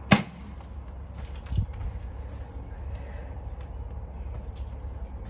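Wind buffeting the microphone as a steady low rumble, with a sharp click just after the start and a low thump about a second and a half in.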